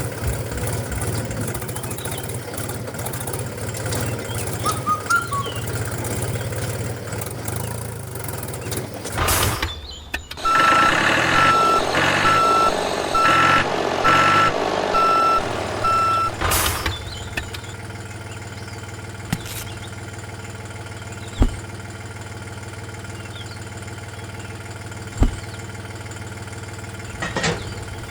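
Electronic reversing-alarm style beeps, about one a second for some six seconds midway, over a steady low hum. A few sharp clicks come near the end.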